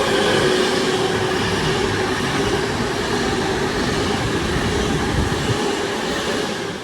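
Avanti West Coast Class 390 Pendolino electric train passing through the station: a loud, steady rush of wheel and air noise with a steady hum, fading away near the end.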